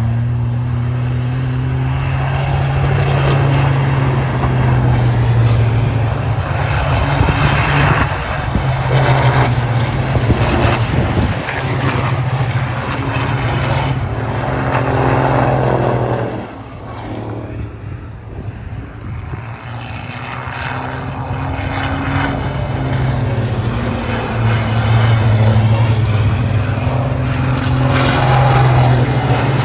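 Turbo-diesel racing trucks at full throttle, a steady low engine drone with turbo and tyre noise. It eases off briefly a little past halfway, then builds again as more trucks come through.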